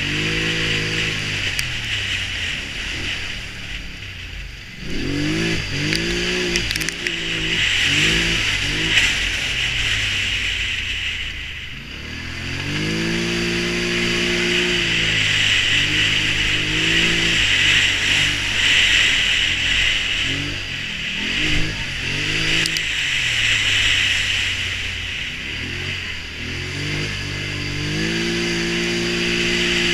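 Polaris Sportsman Touring 1000 ATV engine revving up and easing off again and again under throttle, with the pitch repeatedly rising and falling and two short lulls, about 4 and 11 seconds in. A steady hiss runs under the engine.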